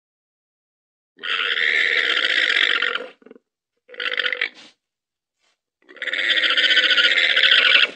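Llama calling: a long harsh, rasping call of about two seconds, a short one, then another long one.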